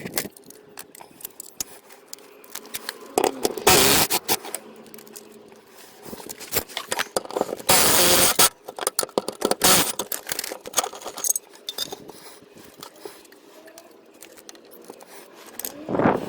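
Metal clinking and scraping of hand tools and exhaust parts being worked on, many small clicks and knocks with two louder rattling bursts about four and eight seconds in.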